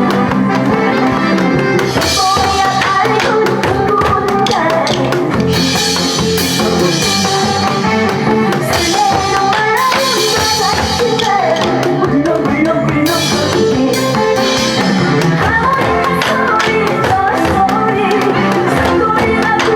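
Korean trot song music with a singing voice, with nanta drums struck in time to it.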